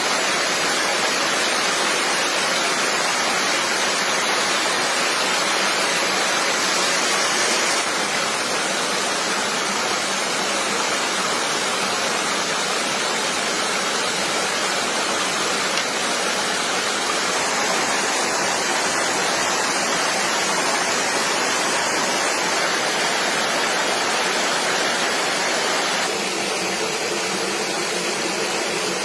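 Steady rush of flowing stream water, with small shifts in level about eight seconds in and again near the end.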